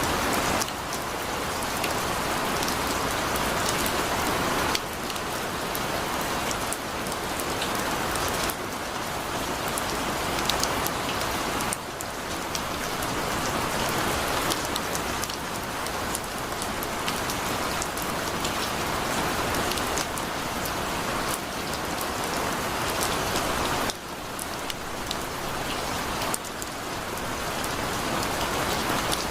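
Heavy rain pouring steadily, with individual drops ticking sharply on a surface. The hiss changes abruptly in tone and loudness every few seconds.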